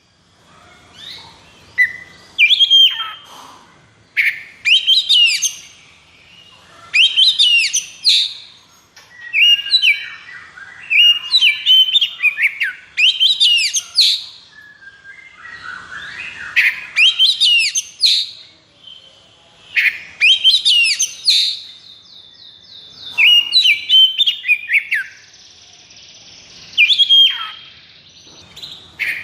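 Oriental magpie-robin (kacer) singing loudly in a fast, varied run of sharp sweeping whistles and chattering notes, a phrase every second or two, with a held buzzy note about three-quarters of the way through.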